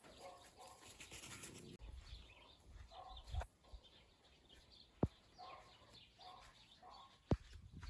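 Faint short animal calls repeating, with a dull thump about three seconds in and two sharp knocks, one about five seconds in and one near the end.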